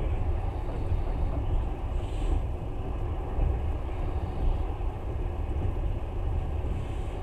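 Moving passenger train heard from inside the carriage: a steady low rumble of the wheels and running gear on the rails.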